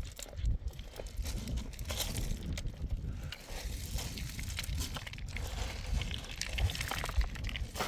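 Irregular crunching and crackling over a steady low rumble of wind on the microphone.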